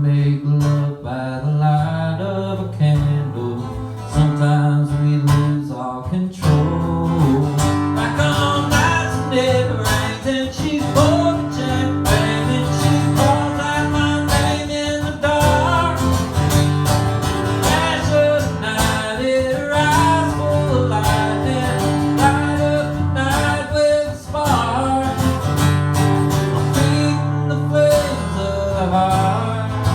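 Live country music: acoustic guitar strummed through an instrumental stretch of the song.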